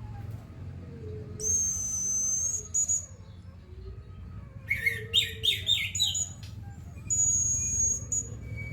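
Orange-headed thrush (anis merah) singing: a long, high, thin whistle, then a quick run of about six chirpy notes roughly halfway through, then another long high whistle.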